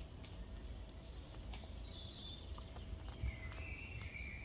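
Faint birds calling: a few short, high whistled chirps over a low outdoor rumble.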